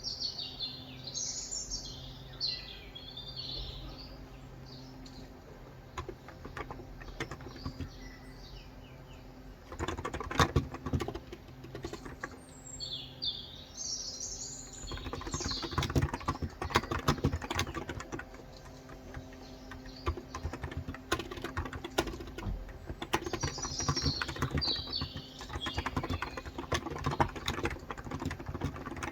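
Typing on a COX Endeavor electrocapacitive (Topre-style) tenkeyless keyboard with 35 g switches: scattered keystrokes at first, then steady runs of key presses from about a third of the way in. Small birds chirp in short phrases near the start, in the middle and near the end.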